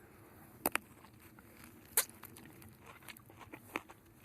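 A few scattered sharp clicks and light rustles over a quiet background: two close together under a second in, a stronger one about two seconds in, and a few fainter ones near the end.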